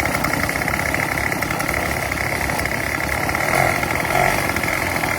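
Weed eater engine, rigged as a kayak's outboard motor, running steadily just after being started in the water.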